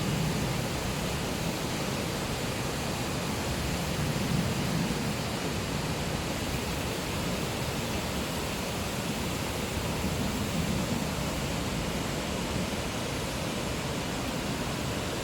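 Waterfall, a steady, even rush of falling water that swells slightly a few times.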